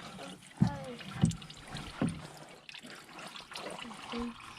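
Engine coolant trickling and splashing out of the Sprinter's opened cooling system, with three sharper splashes in the first two seconds.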